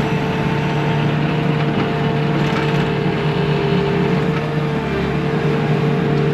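Bobcat T630 skid-steer loader's diesel engine running steadily under working load, with a steady hum and whine.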